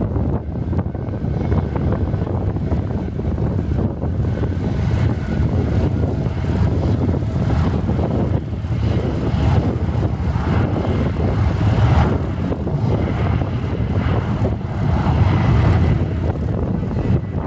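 Cessna 172's piston engine and propeller running steadily, the level swelling a little now and then.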